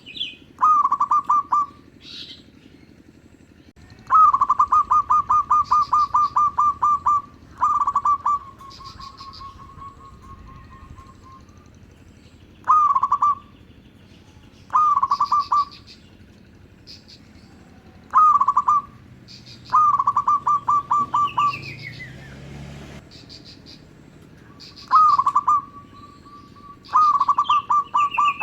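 Zebra doves (perkutut) cooing in bouts of rapid, evenly repeated notes on one pitch. The bouts are mostly about a second long, with one running about three seconds. Higher chirps and a falling call from other small birds come between the bouts.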